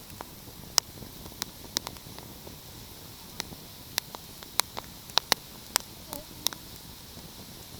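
Wood fire crackling: irregular sharp pops and snaps, about a dozen, over a steady soft hiss.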